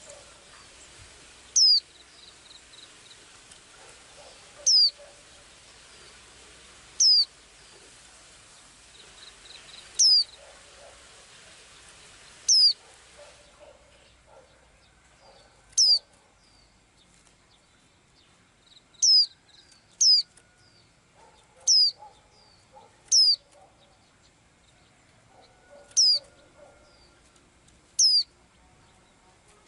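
A small bird giving a short, high, down-slurred call, repeated about a dozen times at irregular gaps of one to three seconds, with faint lower twittering between the calls. A background hiss cuts out about halfway through.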